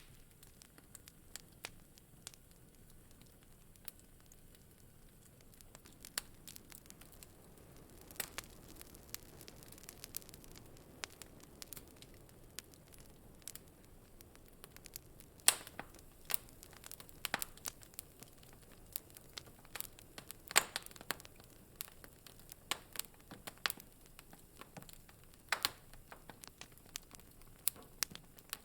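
Wood fire crackling in a fireplace: irregular sharp pops and snaps over a faint steady hiss, with the loudest pops a little past halfway and again a few seconds later.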